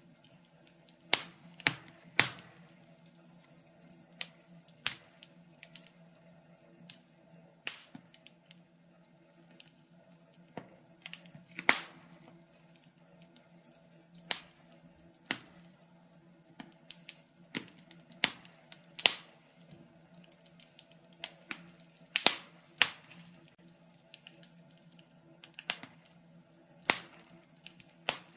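Fire in a fireplace crackling, with irregular sharp pops and snaps about once or twice a second.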